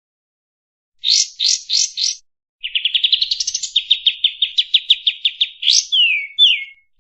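Kapas tembak birdsong: a run of four quick rising notes, a short pause, then a long fast trill of clipped notes ending in two downward-slurred whistles.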